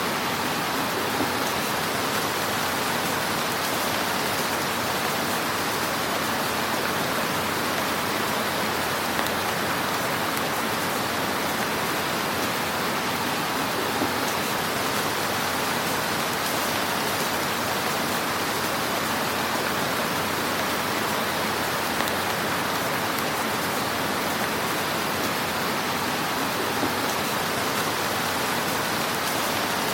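Wood fire burning in a fireplace: a steady hiss of dense small crackles, with a few slightly louder pops now and then.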